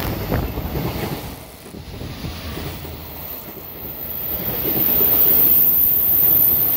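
Container freight train's wagons running through the station past the platform, the sound easing off, then a JR West 223 series electric train pulling in alongside, louder from about four seconds in, with wind buffeting the microphone.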